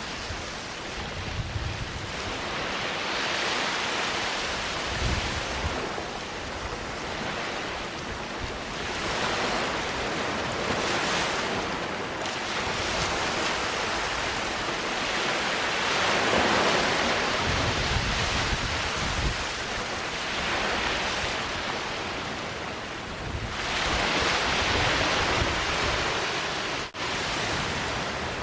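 Sea waves washing onto a sandy beach, swelling and easing every few seconds, with intermittent low wind rumble on the microphone and a momentary dropout near the end.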